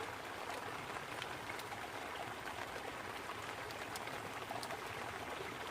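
Steady rain pattering on a tarp overhead, with a brook babbling beneath it and a few sharper drop ticks.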